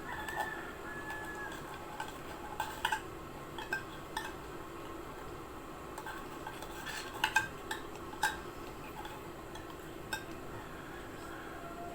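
Scattered light clinks and taps of hand-feeding utensils against a dish, over a steady low background hum. They come as formula is being fed to baby cockatiels and parakeets.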